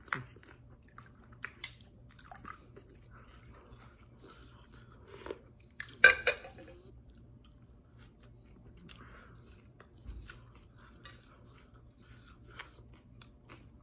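Close-up chewing of a crispy fried taro-and-shrimp fritter, with scattered crisp crunches, the loudest about six seconds in.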